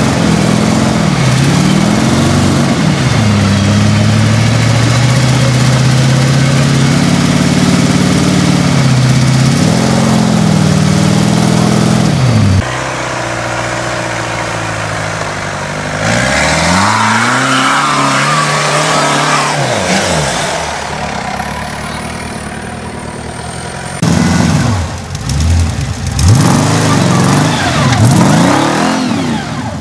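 Off-road 4x4 engines revving under load, the pitch climbing and dropping again and again, with quick rev bursts near the end. The sound changes abruptly several times between clips.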